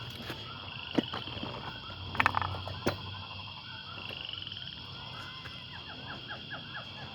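Outdoor animal chorus: a steady high drone with rows of quick repeated chirps, and a few sharp knocks around one to three seconds in.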